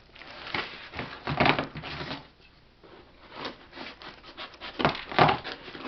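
Cardboard shipping box being opened and its packing handled: irregular rubbing, scraping and rustling of cardboard and packing material. There is a short lull in the middle, and the loudest scrapes come about a second and a half in and again near the end.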